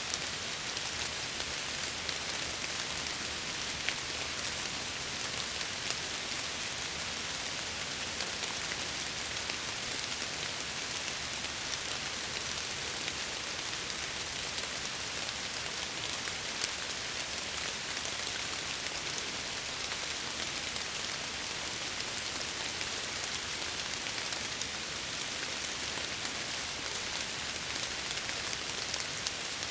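Steady rain with scattered drops ticking, a dense even hiss. The sound of rain falling against the windows.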